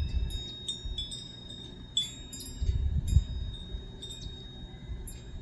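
Wind chimes ringing irregularly, with many high, bright metallic notes struck one after another and fading, over a low rumble.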